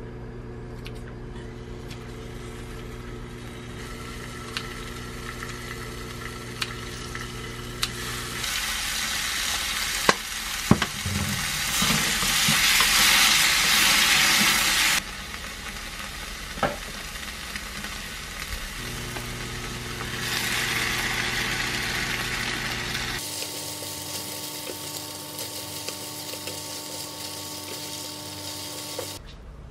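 Kimchi frying in oil in a small frying pan as it is stirred with a spatula, with clicks and scrapes of the spatula on the pan. The sizzle grows louder twice, over the middle stretch and again a little later, over a steady low hum.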